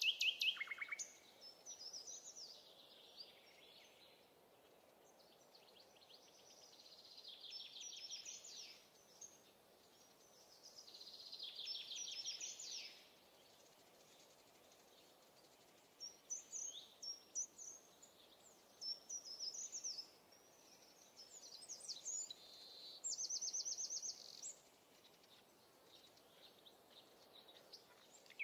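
Songbirds singing in short phrases a few seconds apart, some as fast even trills, over a faint steady background hiss.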